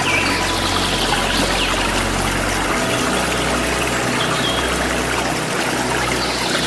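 Waterfall water rushing steadily, with a few short bird chirps over it.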